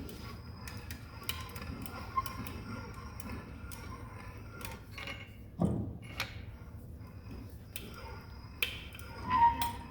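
Hand winch on a steel-pipe aircraft tail hold-down being cranked down, its mechanism clicking irregularly. There is a thump about halfway through and a short ringing tone near the end.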